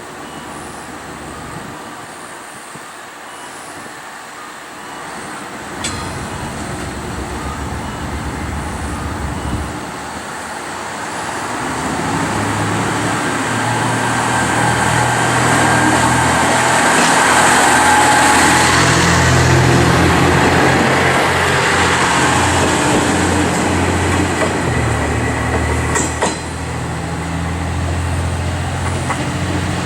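Diesel railcar's engine running with a low, steady hum, growing louder through the first half and then holding loud. Two sharp clicks come through, one about a fifth of the way in and one near the end.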